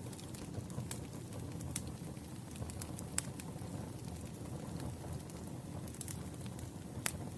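Campfire of burning wood logs crackling: a low steady rumble of flames with scattered sharp pops and snaps, the sharpest about three seconds in and near the end.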